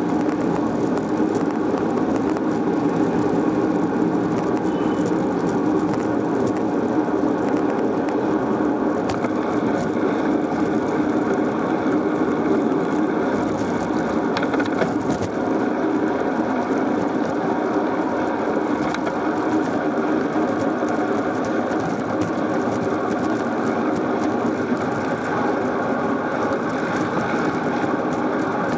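Steady rushing noise of a bicycle ride heard from a camera on the moving bike: wind and tyre noise, even and unbroken.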